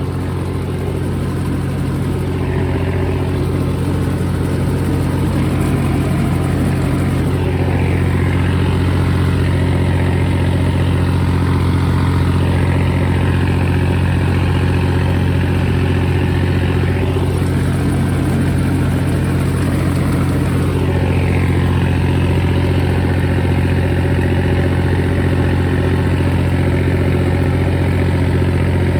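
Tractor's diesel engine running steadily, a little louder over the first few seconds and then holding an even pitch.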